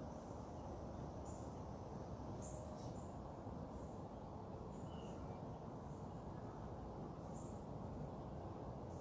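Outdoor ambience: a steady low background rumble with short, high bird chirps repeating about once a second, and a couple of lower chirps about five seconds in.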